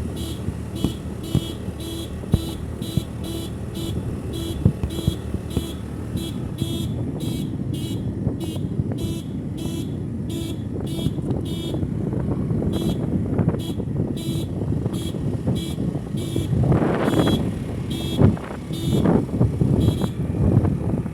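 A vehicle running along a road, with an electronic beep repeating evenly about twice a second over the engine and road noise. The rumble swells louder for a moment near the end.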